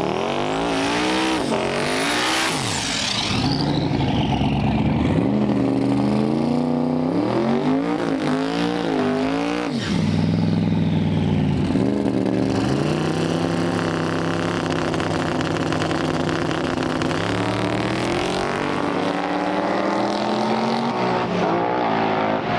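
Twin-turbo Malibu drag car's engine revving up and dropping back sharply several times, with a high whistle rising and falling in the first few seconds, then running at a steadier, slowly climbing pitch.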